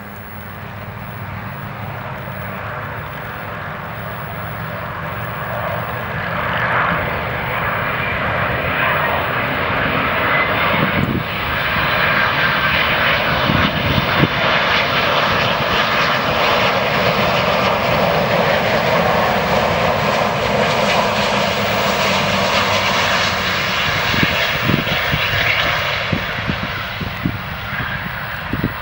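Jet airliner's engines passing close, growing steadily louder for several seconds, holding at their loudest for a while, then easing off near the end.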